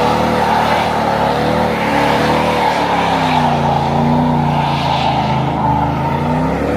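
Car engine running under load, its pitch slowly dipping and rising again, over a steady rushing noise.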